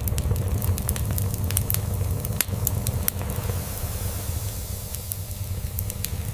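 Crackling log fire in a fireplace, with many sharp pops and snaps that thin out after about three seconds, over a steady low cat purr.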